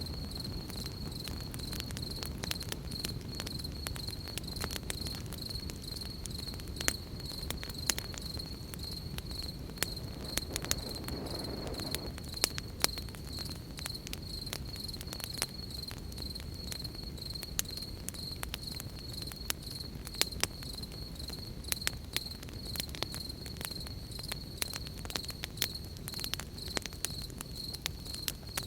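Crickets chirping in a steady, fast-pulsing high trill, over a campfire crackling with irregular sharp pops and snaps. A soft brief rush rises and fades about eleven seconds in.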